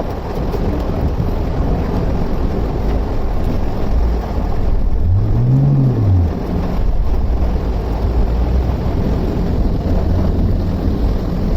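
A vehicle engine running amid a steady, loud rush of water and rain noise on a flooded street. About five seconds in, a pitched sound rises and falls once.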